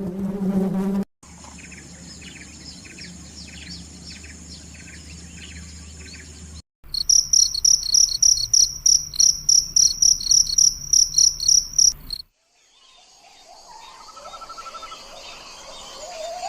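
A run of insect recordings. A buzzing insect stops about a second in and gives way to a steady high insect trill. Then loud cricket chirping sets in, about four chirps a second, and after about five seconds it cuts to a quieter recording with a few rising calls.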